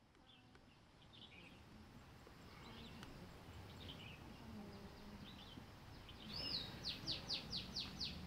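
Wild birds chirping with short, scattered calls, fading in over the first few seconds over a low background hum. Near the end one bird calls louder, a quick run of about six falling notes, about five a second.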